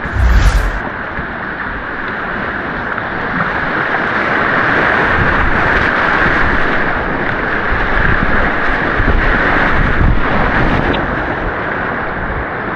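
Steady rush of white water on an artificial white-water course, with wind buffeting the action camera's microphone. A brief low thump comes right at the start.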